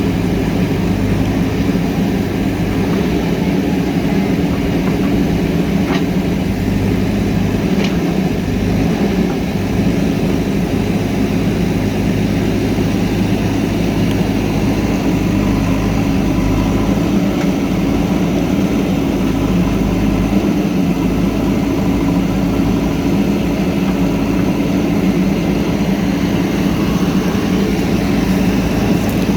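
JCB backhoe loader's diesel engine running steadily, with two brief clicks about six and eight seconds in.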